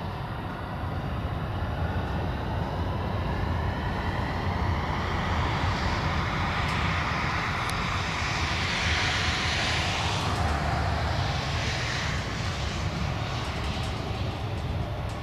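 Boeing 737-800 jet with CFM56-7B turbofan engines flying past on its landing approach. The jet roar swells to its loudest about nine seconds in, then fades.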